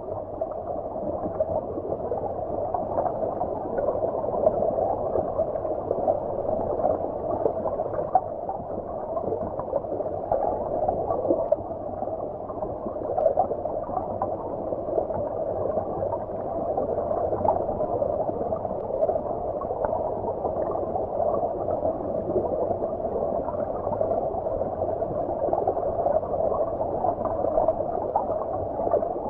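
Stream water flowing, heard as if from underwater: a steady, muffled rush with no treble and small irregular flickers of bubbling.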